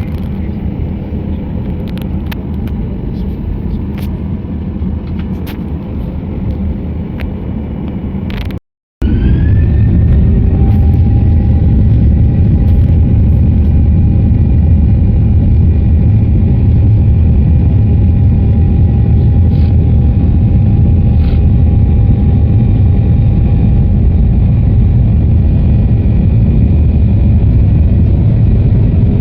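Steady low rumble of a moving road vehicle with a thin buzzing tone over it. Near nine seconds in it cuts out briefly; when it comes back the rumble is louder, and a high tone rises and then holds steady alongside a lower one.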